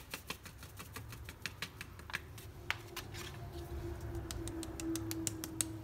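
Baking powder being sifted through a hand sieve: rapid, irregular light ticking and tapping as the sieve is shaken and tapped.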